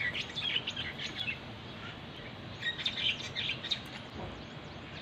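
Small birds chirping in quick bursts, once at the start and again about three seconds in, over a steady background hiss.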